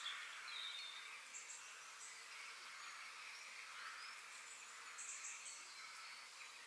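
Forest birdsong: scattered short, high chirps and trills from small birds, twice in quick clusters, over a steady background hiss.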